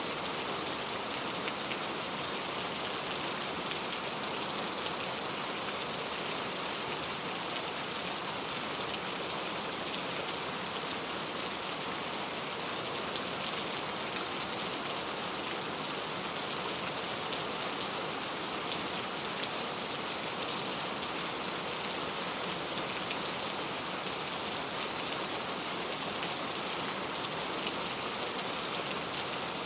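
Steady rain falling, a dense patter of drops over an even hiss.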